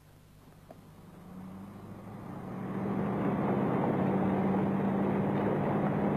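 Classic Range Rover's Rover V8 engine running with a steady hum and road noise, growing louder over the first three seconds, then holding steady.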